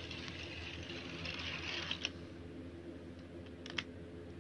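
Handling of a plastic toy train and its packaging: rustling for about two seconds, then a sharp click about two seconds in and two more clicks a little before the end.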